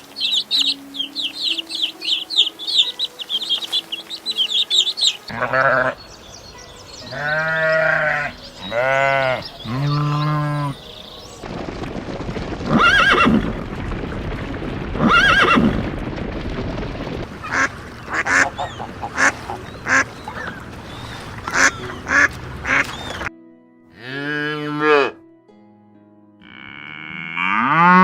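A run of different animal calls, one kind after another: rapid high chirping first, then several loud arching cries, then a noisier stretch of repeated calls, with background music underneath.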